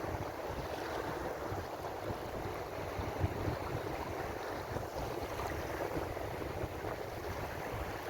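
Ocean waves washing on the shore in a steady, continuous surf noise with a low rumble underneath.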